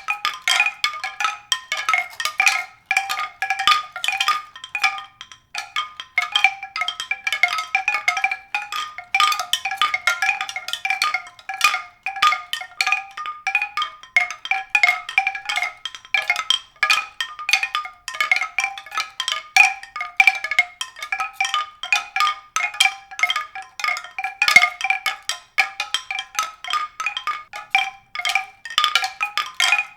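Tuned percussion: a dense, irregular stream of quick struck notes ringing on a few recurring pitches, without pause.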